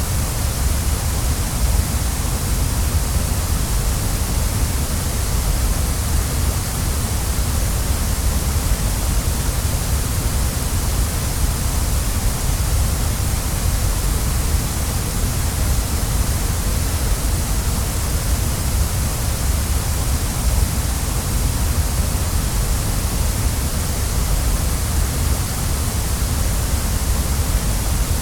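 Waterfall: a steady, unbroken rush of falling water, with a deep rumble underneath and a hiss on top.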